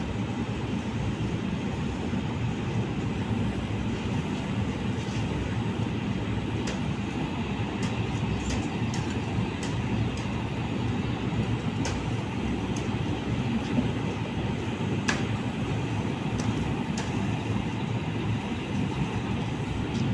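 Train running steadily: a continuous low rumble with a few sharp clicks scattered through it.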